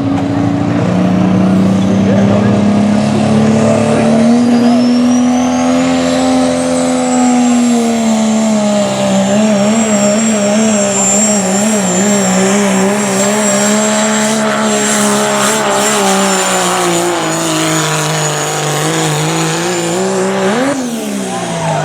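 Limited Pro diesel pickup truck pulling a sled under full throttle: the engine climbs in pitch over the first few seconds, then wavers and sags under load, with a high turbocharger whistle rising in and held through most of the run. Near the end the engine flares up briefly and drops off as the throttle is let off.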